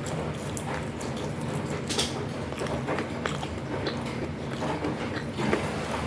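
Close-miked eating: crunchy bites and chewing of fried food, with sharp crackles every second or so. A steady low rumble runs underneath.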